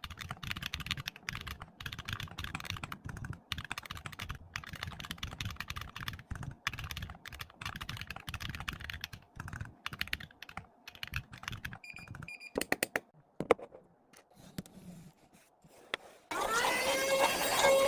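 Fast, continuous typing on a computer keyboard for about twelve seconds, then a short electronic beep and a few stray clicks. Music comes in near the end.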